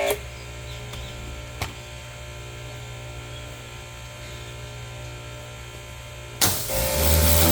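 Pressure washer spraying stops just after the start, leaving a low steady hum with a single sharp click about one and a half seconds in. The loud spraying starts again about six and a half seconds in.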